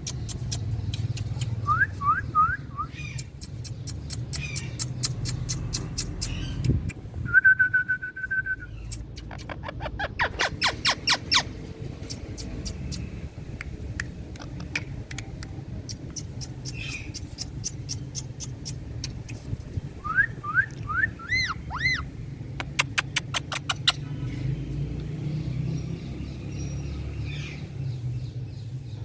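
Indian ringneck parakeet calling: short quick runs of rising chirps, one held steady whistle, and fast runs of sharp clicks, over a steady low hum.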